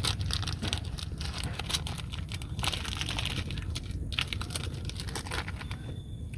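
Close, irregular crinkling and rustling, like something being handled, over a steady low rumble.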